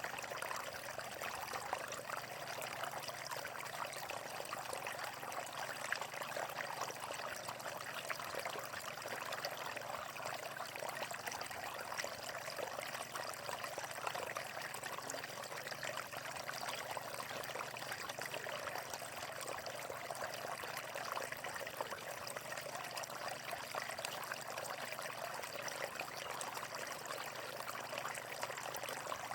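Water flowing and splashing steadily, an even, unbroken babble of running water with fine splashes.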